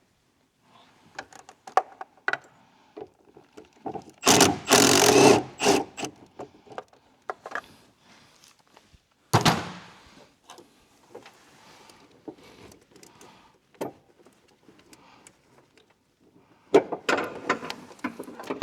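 Hand tools and metal parts clinking and knocking during work on a car's engine bay. There is a loud, rough, scraping-like noise lasting about a second and a half, starting about four seconds in, and a single sharp knock about halfway through.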